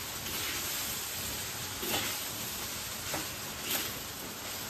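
Fried rice sizzling in a wok as it is stir-fried with a spatula, with a few sharp scrapes of the spatula against the pan about two, three and nearly four seconds in.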